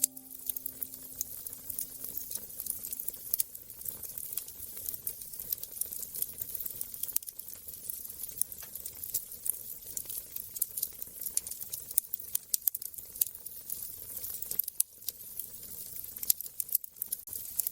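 Wood fire crackling: a dense, irregular run of small sharp pops and snaps over a soft hiss. A held low musical tone fades out in the first few seconds.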